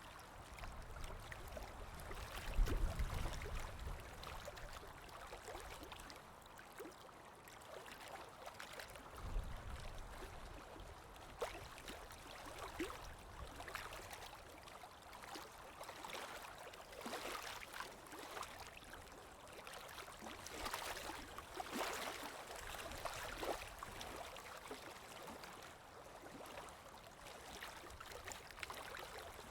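Ocean waves washing and splashing, a steady wash of water broken by many small splashes, with deeper low surges about three seconds and about nine seconds in.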